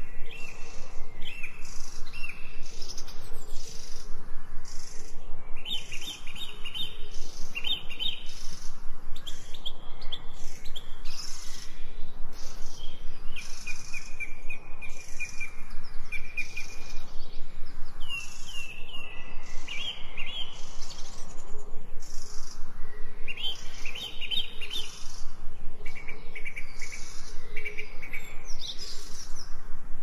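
Songbirds chirping and singing in short repeated phrases, several phrases following one another throughout, over a continuous background of higher chirps.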